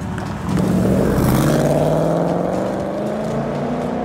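2019 Ford Mustang Bullitt's 5.0-litre V8 accelerating past through its active-valve performance exhaust. The engine note swells about half a second in, is loudest after about a second, then slowly fades as the car moves off.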